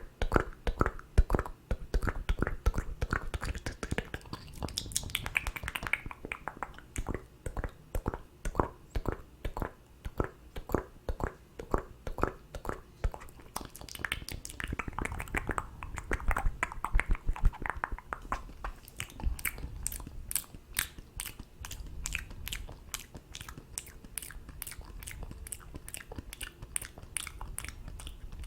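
Close-miked ASMR mouth sounds: a quick run of wet clicks and smacks of lips and tongue, several each second, with a couple of falling swishy sounds between them.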